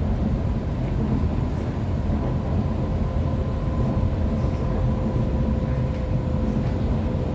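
Sydney Trains Waratah electric multiple unit running, heard from inside the carriage: a steady rumble of the train in motion with a faint steady whine over it.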